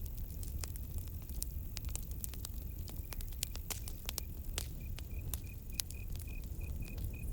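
Campfire crackling, with sharp irregular pops over a low steady rumble. About halfway through, a cricket starts chirping: a high, even chirp about four times a second.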